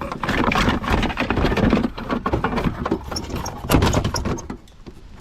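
Broken plastic front-end trim cracking, creaking and scraping as it is worked loose, with a second loud spell about three and a half seconds in.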